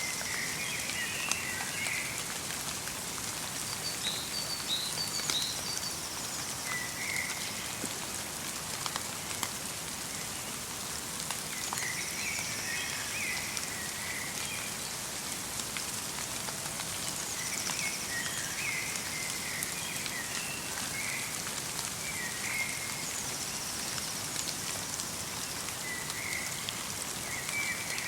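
Steady light rain pattering in a forest, with small birds calling in short chirping phrases every few seconds and some thin, high notes.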